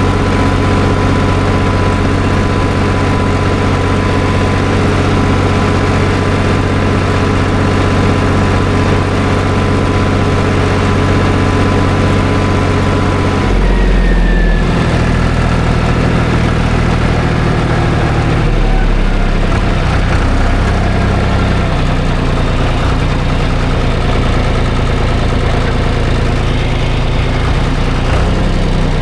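Tractor engine running steadily, its note changing abruptly about halfway through and again a few seconds later.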